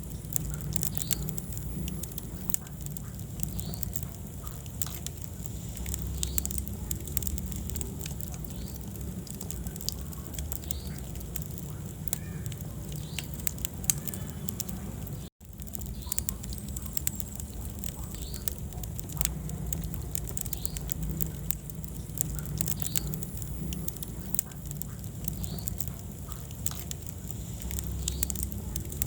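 Wood fire crackling, with frequent sharp pops and snaps over the low, steady rumble of the flames. The sound cuts out for an instant about halfway through.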